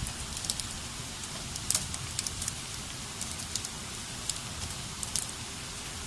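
Hail and rain in a thunderstorm: a steady hiss of falling rain with irregular sharp ticks of hailstones striking hard surfaces.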